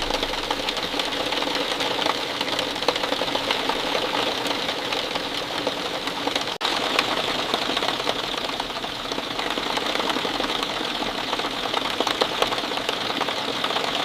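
Steady falling rain: a dense patter of drops with a very brief dropout about six and a half seconds in.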